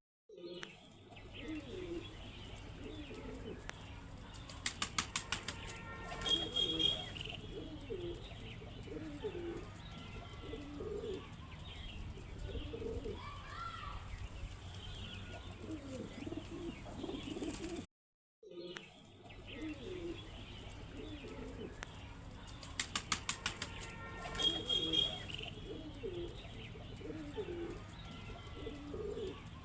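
Domestic pigeons cooing over and over, with a quick run of sharp wing claps about five seconds in and again near the 23-second mark. A steady low hum sits underneath, and the sound cuts out briefly near the middle.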